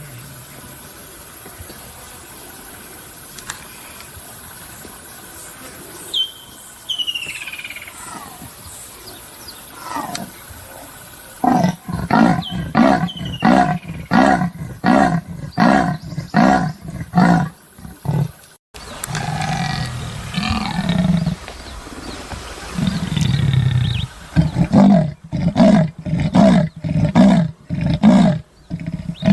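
Leopard giving its rasping sawing call: two bouts of rough, rhythmic grunts at about two a second, the first starting about a third of the way in, the second near the end.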